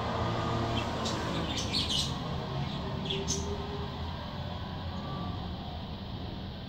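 A bird chirping a few short, high notes over a steady low background hum.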